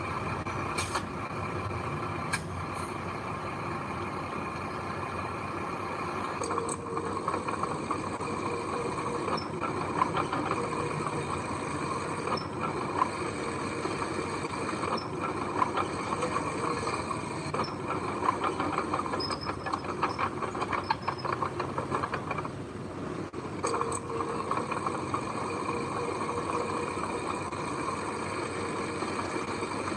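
Heavy construction machinery's diesel engine running steadily under load, with light clicks every couple of seconds through the middle stretch and a brief drop in level near the end.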